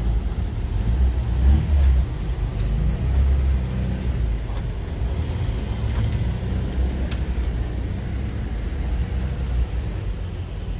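Air-cooled Volkswagen engine running at low speed nearby, a steady low rumble.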